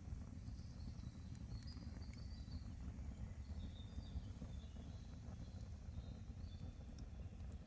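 Forest ambience: short, high bird chirps come and go over a steady low rumble, with a couple of sharp clicks.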